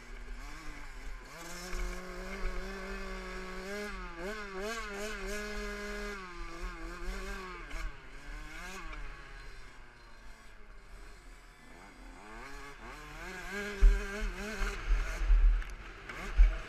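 Small two-stroke motocross engine of a KTM 65 SX running and revving up and down, its pitch wavering. From about fourteen seconds in, loud low thumps and wind rumble on the microphone come in over it.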